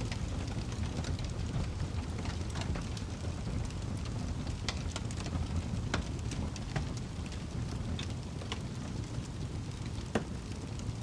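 Wood fire crackling in a fireplace: a steady low rumble of flame with scattered sharp pops. One louder pop comes near the end.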